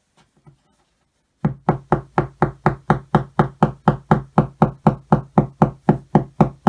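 Rapid, even blows, about four a second, knocking wooden dowels into a flat-pack cupboard panel. Each blow rings with a low hum from the struck board. The blows start about a second and a half in.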